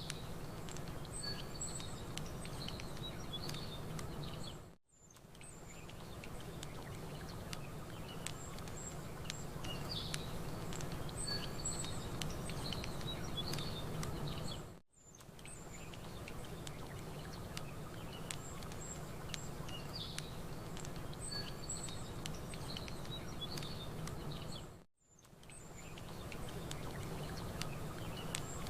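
Campfire crackling with small birds chirping and a steady wash of lapping water underneath. The sound dips briefly to near silence and fades back in three times, about every ten seconds, as the short ambience loop repeats.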